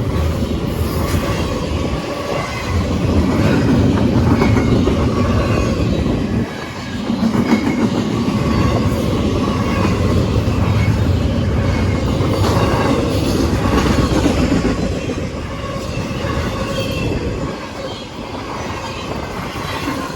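Freight train passing close by, its wheels rolling over the rails in a steady loud rumble, with brief dips in the noise about a third of the way in and again near the end.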